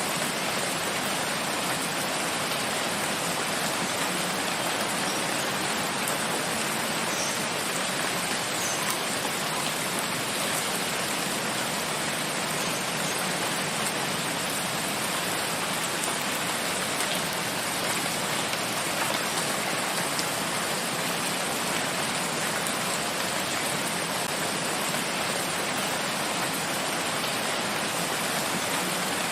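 Steady rain falling in a forest, an even hiss of many drops with no breaks.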